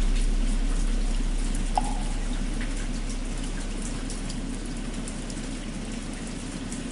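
Steady rain, with the low hum of a struck temple bell slowly dying away, and a single hollow wooden fish (muyu) knock about two seconds in.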